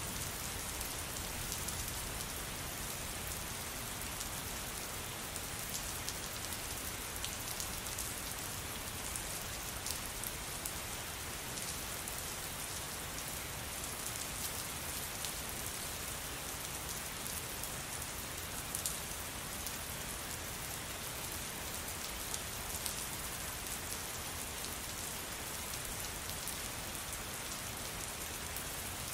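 Steady rain falling on a surface, an even hiss with many single drops ticking through it and a few louder drop hits standing out.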